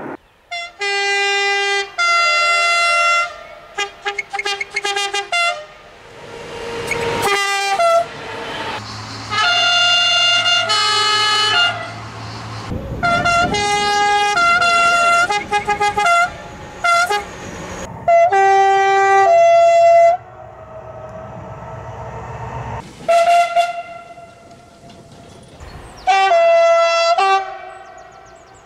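French locomotive two-tone horns sounded as a long sequence of short and long blasts, stepping between a few notes in a rhythmic, tune-like pattern. A train's low engine rumble runs under parts of it.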